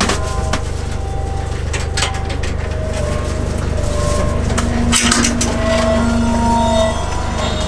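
Steady low machine hum with scattered light clicks and taps as toppings are laid on a pizza, and a held droning tone for a couple of seconds in the middle.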